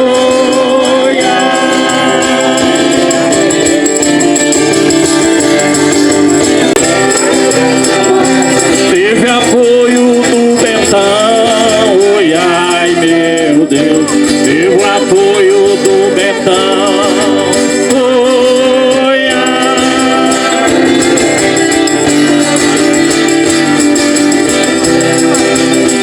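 Live music: a song sung over instruments, with a rattle shaker.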